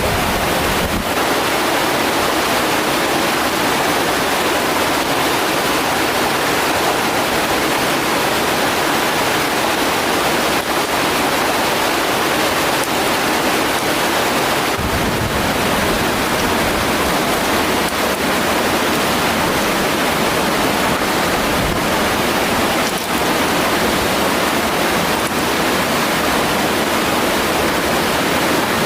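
Mountain stream water rushing and splashing in a steady, loud wash.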